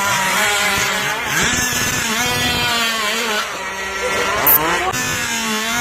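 Small two-stroke engines of radio-controlled Thai long-tail racing boats running hard, their buzzing pitch wavering up and down as the throttle changes. A brief sharp high-pitched squeak a little over four seconds in.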